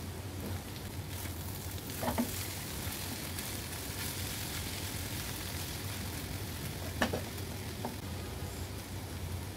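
Shredded raw jackfruit and potato sizzling in oil in a nonstick pan while a spatula stirs it, over a steady low hum. Two sharper knocks stand out, about two seconds in and about seven seconds in.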